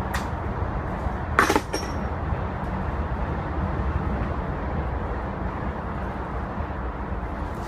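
A metal tool or part clinks once, sharply, with a brief ringing, about one and a half seconds in, over a steady background noise.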